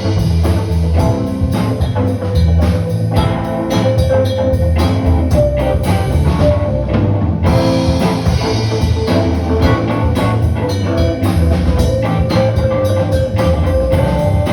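Band playing an instrumental passage, drum kit keeping a steady beat under guitar and held notes.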